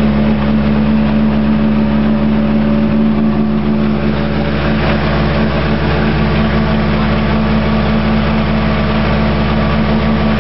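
Subaru Impreza WRC rally car's turbocharged flat-four boxer engine idling steadily, at an even pitch and loudness.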